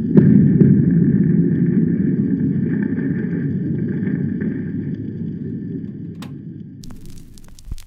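A low rumbling war sound effect played from a gramophone record, with a few sharp cracks, fading out over several seconds. About seven seconds in it gives way to the record's surface hiss and hum.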